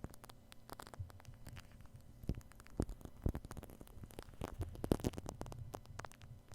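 Shaving cream worked directly over a binaural microphone: a run of irregular soft crackles and wet squishy pops, some louder than others, over a low steady hum.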